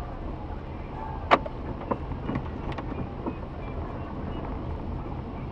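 Steady low rumble of a car running, with one sharp click a little over a second in, followed by a few lighter knocks.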